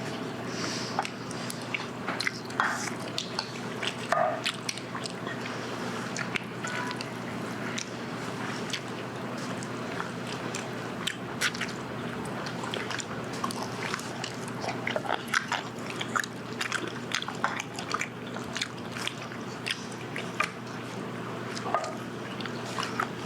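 Close-up chewing and biting of charcoal-grilled whole chicken, with many small smacks and clicks scattered through, over a steady low hum.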